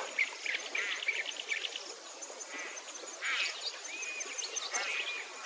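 Several small birds chirping and calling, with a quick run of short chirps near the start and scattered whistled notes after.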